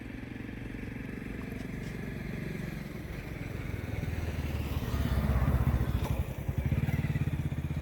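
A motor vehicle engine running, growing louder to its loudest about five to six seconds in.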